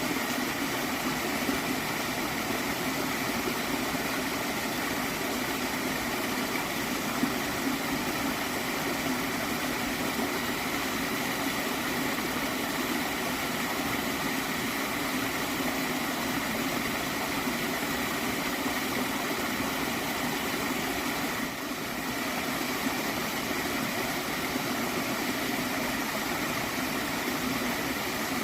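Small stream flowing and gurgling steadily.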